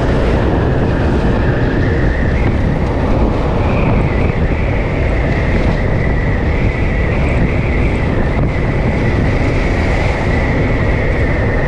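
Yamaha FZ V2 motorcycle's single-cylinder engine running at a steady cruise, with heavy wind rush on the microphone as the bike rides along.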